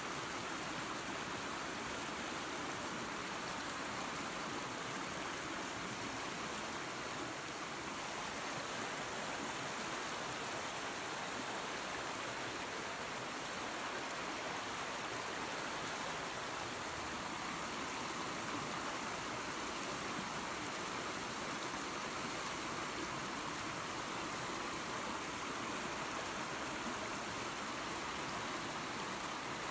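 Small waterfall and creek water rushing steadily over rocks, an even hiss with no breaks.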